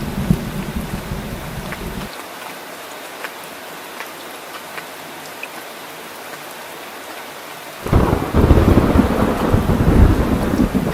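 Steady rain with thunder rumbling: the rumble stops about two seconds in, leaving rain hiss with scattered drips, and a loud thunderclap breaks in near the end and keeps rumbling.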